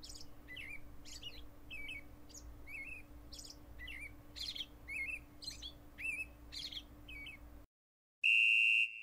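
A small bird chirping over and over, about two short calls a second, over a faint steady hum. The chirping cuts off near the end, and after a brief silence a loud steady electronic beep begins.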